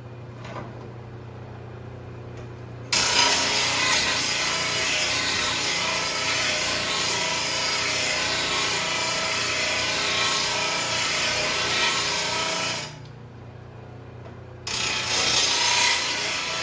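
Power grinder sharpening a steel mower blade: the wheel rasps against the blade's edge for about ten seconds, breaks off for a moment while the motor keeps humming, then bites again near the end.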